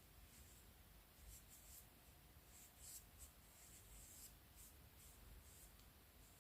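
Near silence: faint room tone with a few soft, short scratching sounds.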